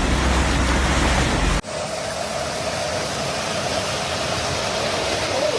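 Torrential rain rushing as a loud, even hiss over a deep rumble, which cuts off abruptly about a second and a half in. A steadier rain hiss follows, with a faint thin hum.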